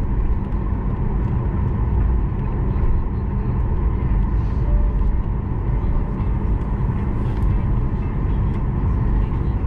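Steady low rumble of jet airliner engines.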